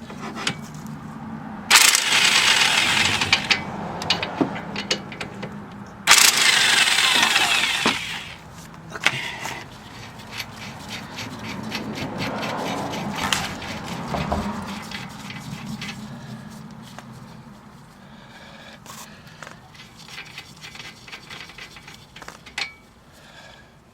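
Impact wrench hammering in two bursts of about two seconds each, breaking loose the large 22 mm bolts that hold the strut to the steering knuckle, followed by quieter scattered clicks of tool handling.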